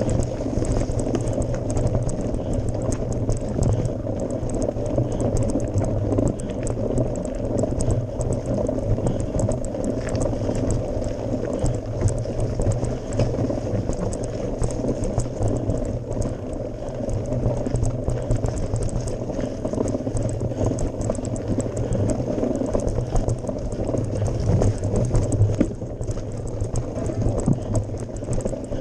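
Onboard sound of a mountain bike climbing a gravel forest road: tyres crunching over the gravel, with a constant patter of fine clicks and rattles over a low rumble.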